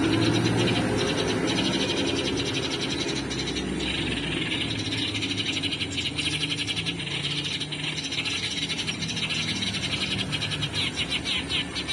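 Eurasian tree sparrows chirping in a fast, continuous chatter, the kind of sparrow call played as a lure. A low rumble underneath fades over the first second or two.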